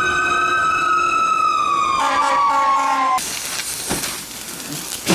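Small steam engine's whistle blowing one long, high note that sags slightly in pitch, turns rougher and more chord-like about two seconds in, then cuts off suddenly; steam hissing and a couple of sharp knocks follow.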